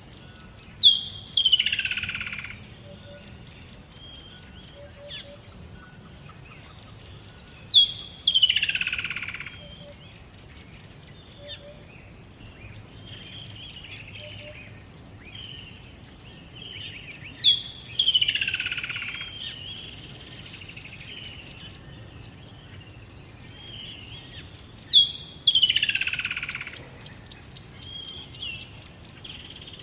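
Songbirds singing: one bird repeats a loud song four times, a sharp high note then a falling trill about a second long, every seven to nine seconds, while other birds chirp softly in between. Near the end a rapid high ticking runs for about three seconds.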